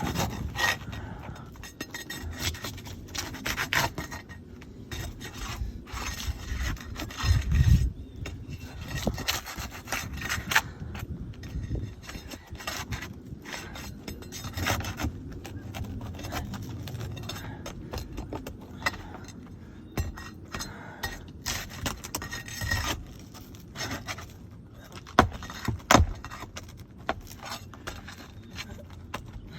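Tools scraping and rubbing against asphalt roof shingles as a damaged shingle is worked loose, with scattered sharp knocks and a heavier thud about seven seconds in.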